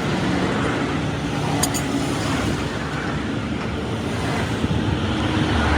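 Steady road traffic noise with engines running close by.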